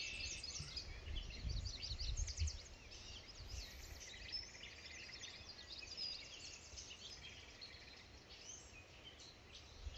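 Birds chirping and calling, many short chirps overlapping. A low rumble sits under them and is strongest in the first two seconds or so.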